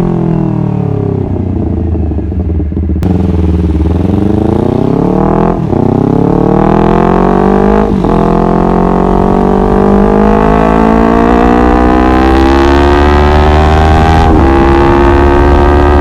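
Honda CBR250RR motorcycle engine: the revs fall off, then climb as it accelerates, dropping sharply at upshifts about five and a half and eight seconds in, then running fairly steadily at speed.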